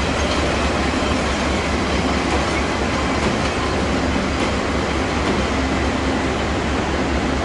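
Two TRA E200-class electric locomotives and their passenger coaches passing on the track: a steady rumble of steel wheels rolling on the rails, with a few faint clicks.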